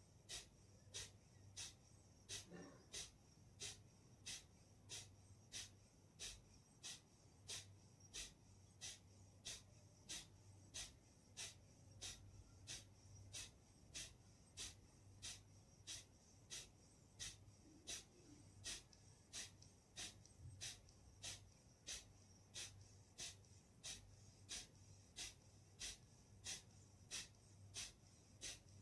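Kapalbhati breathing: quick, forceful exhalations through the nose, each a short hiss, repeated steadily at a little under two a second.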